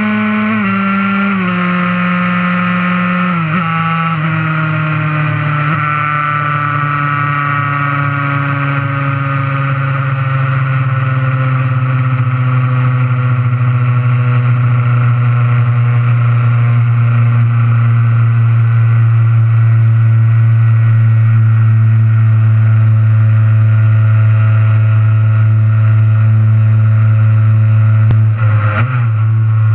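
Honda NSR50 two-stroke single-cylinder racing engine running hard, its pitch dropping in three quick steps in the first few seconds, then sinking slowly while getting a little louder.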